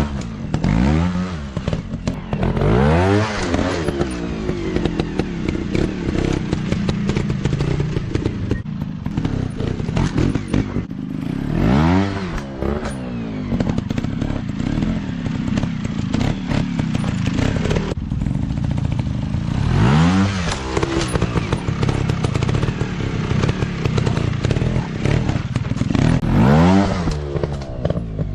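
Dirt bike engines running and revving, the pitch sweeping up and back down in repeated bursts every few seconds, with scattered clattering knocks.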